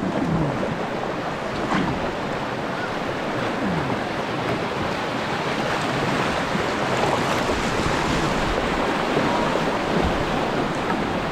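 Creek water rushing steadily around a kayak moving through the current.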